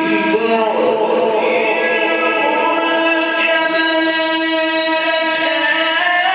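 Melodic Quran recitation in the drawn-out mujawwad style, a reciter's voice holding long, sustained notes with a shift in pitch near the end.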